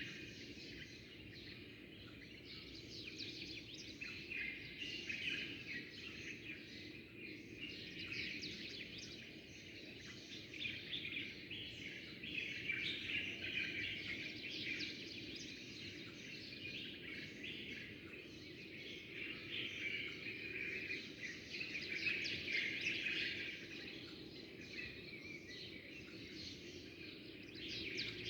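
Many small songbirds chirping and twittering at once in a continuous chorus that swells and eases, over a steady low background noise.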